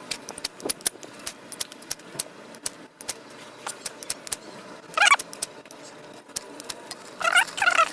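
Kindling of twigs and natural fibres crackling with rapid, irregular sharp snaps as a small, slow-catching campfire tries to take hold. Two short wavering calls, likely from a bird, come about five seconds in and near the end.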